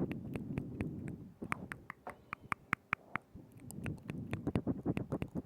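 Close-miked ASMR mouth sounds: a run of wet tongue clicks and lip smacks, thickening into a dense, wet smacking for about the first second and again from about four seconds in.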